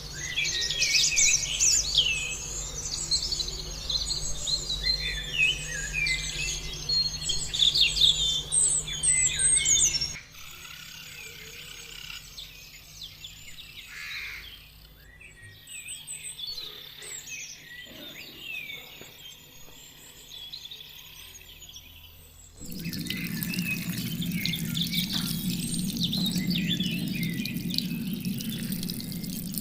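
Birds chirping and singing, with many quick overlapping calls, loudest in the first third and sparser after that. About three-quarters of the way through, a steady low hum with a hiss cuts in abruptly.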